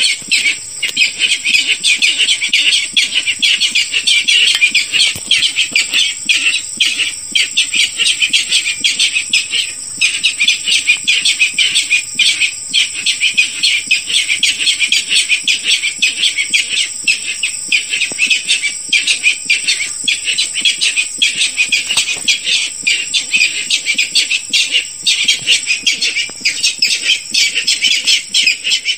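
Recorded calls of a barred rail played as a hunting lure: a dense, unbroken run of rapid, shrill notes with only brief gaps, over a steady high whine.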